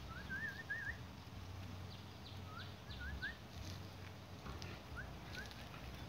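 A small bird singing faintly: short, rising whistled notes in quick groups of three or four, repeated three times.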